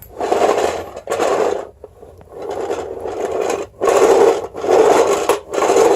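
Bissell Sweep Up manual carpet sweeper pushed back and forth across a tile floor, its rolling brushes whirring and rasping over soil and hole-punch clippings in about six strokes of a second or so each, with short pauses between. On tile it mostly pushes the dirt around rather than picking it up.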